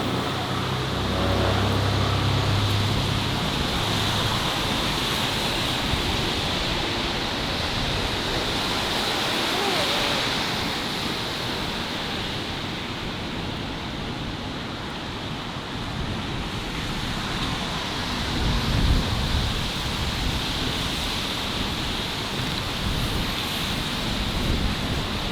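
Steady rush of city traffic on a street, with a vehicle engine humming low in the first few seconds and a brief louder swell about three quarters of the way through.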